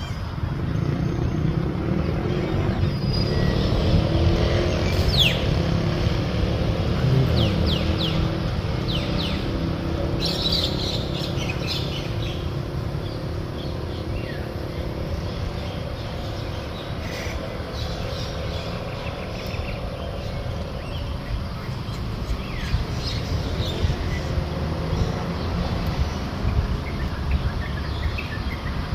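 Birds giving short, scattered chirps and calls over a steady low rumble.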